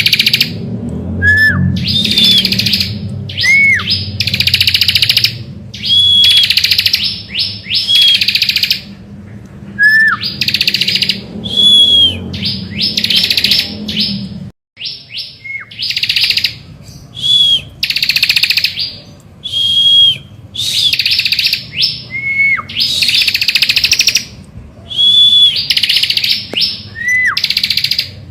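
Bar-winged prinia (ciblek) singing a loud, buzzy trilled phrase about a second long, repeated every one to two seconds. Each phrase is set off by a short downward-slurred whistle. A low hum underneath cuts off abruptly about halfway through.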